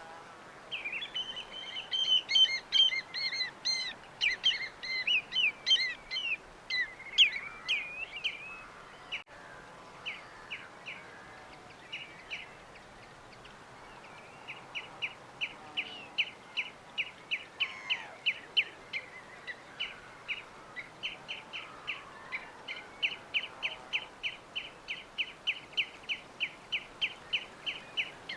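Small songbirds chirping: a busy burst of overlapping song and trills, then a long run of short, evenly repeated chirps at about three a second.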